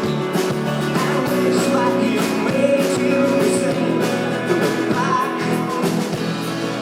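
Live rock band playing an instrumental passage between sung lines: guitars over a steady drum beat with cymbal hits.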